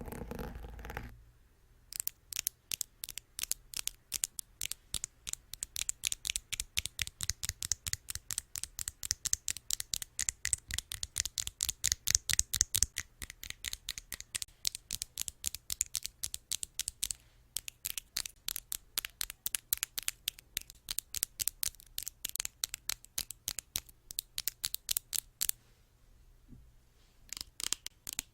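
Rapid fingernail tapping on a hard object, several crisp taps a second in long runs, with two short pauses.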